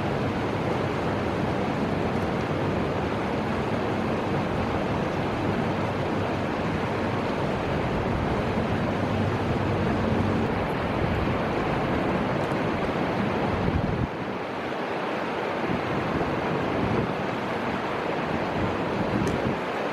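Steady rushing of the Fuji River's flowing water mixed with wind, with low wind buffeting on the microphone that drops away abruptly about two-thirds of the way through.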